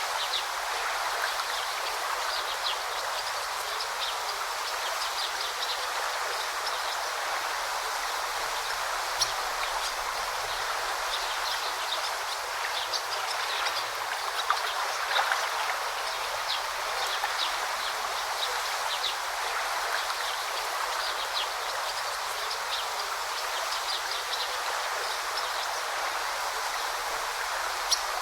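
A forest stream babbling steadily over stones, with many short, high chirps scattered through it.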